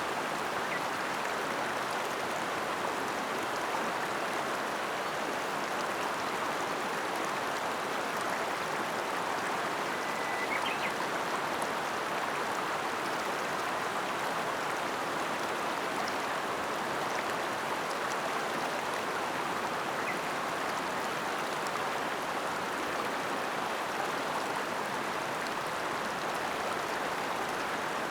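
Ota River flowing: a steady, unbroken rush of stream water.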